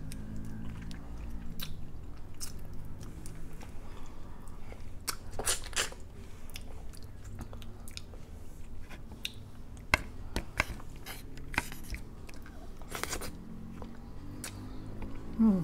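Close-miked eating of crab and garlic butter shrimp: chewing and biting, with many short sharp clicks and a few longer crunches about five and thirteen seconds in. A faint steady low hum runs underneath.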